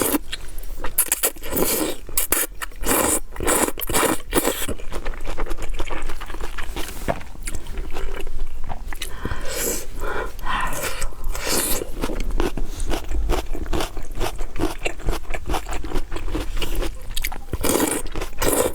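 Close-miked eating: a steady run of crunchy bites and chewing, many sharp crackles and clicks in quick succession.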